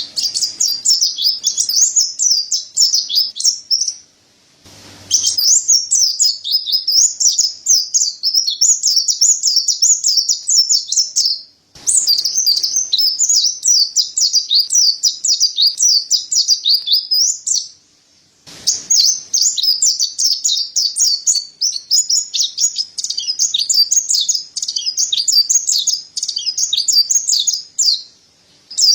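Mountain white-eye (pleci Montanus) singing: long runs of rapid, high twittering notes, broken by short pauses about four, twelve and eighteen seconds in and again near the end.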